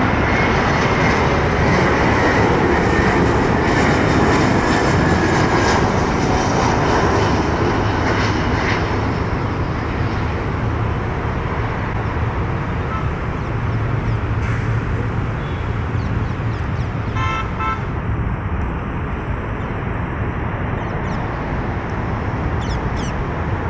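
Jet airliner engines running with a loud roar and a falling whine that fades away over the first several seconds, over steady traffic noise. A vehicle horn toots briefly about seventeen seconds in.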